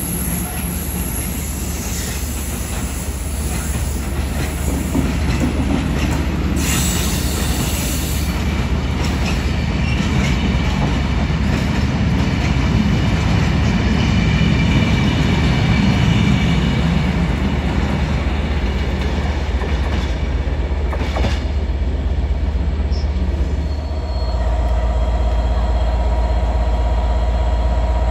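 Freight train's wagons rolling past at low speed: a steady rumble of wheels on rails, with a few sharp knocks and a high wheel squeal through the middle. About four seconds before the end it gives way to the steady running of a diesel locomotive standing nearby.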